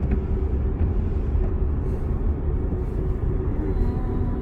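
Car running, a steady low rumble of engine and road noise with a faint steady hum.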